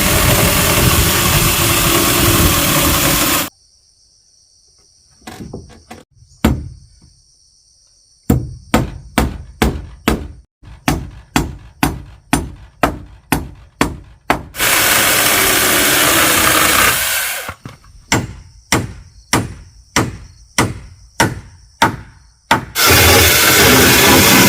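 Woodworking: a power tool runs in three loud bursts of a few seconds each. Between the bursts come runs of sharp, steady blows on wood, about two a second.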